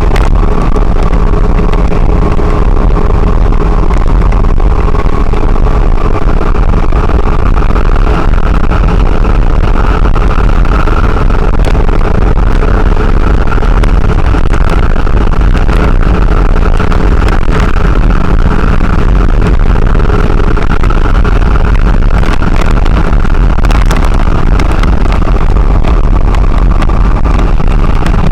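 Steady engine and road noise of a lorry cruising on a highway, heard loud from inside the cab, with a constant low rumble and a steady drone.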